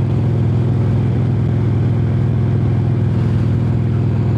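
2005 Harley-Davidson Heritage Softail Classic's V-twin engine running steadily under way at a constant speed, heard through its exhaust, which the rider thinks are the stock pipes. The bike is running smoothly.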